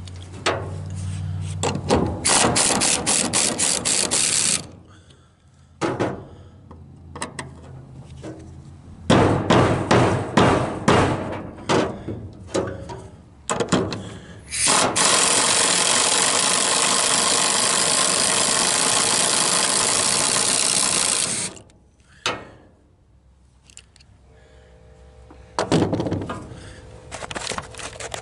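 A wrench clicks in quick ratcheting runs, turning a screwdriver that backs long screws out of a trailer's wooden board. In the middle a loud steady noise runs for about seven seconds.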